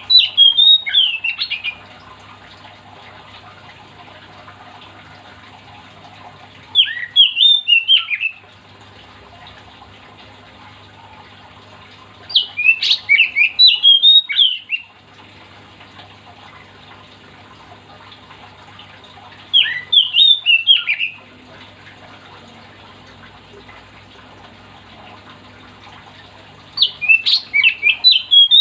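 Oriental magpie-robin singing in short, loud phrases of quick sliding whistles and harsh notes, one phrase every six to seven seconds, five in all, the middle one the longest.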